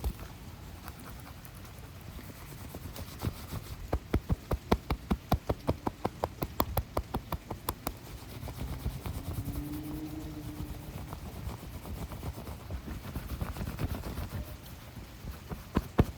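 Close-miked hand sounds: a rapid run of sharp finger taps or fingernail scratch strokes, about five or six a second, loudest in the first half and picking up again near the end.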